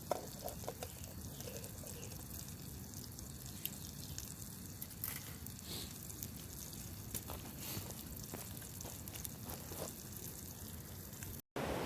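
A slice of ham frying in a pan, a faint steady sizzle with scattered small pops.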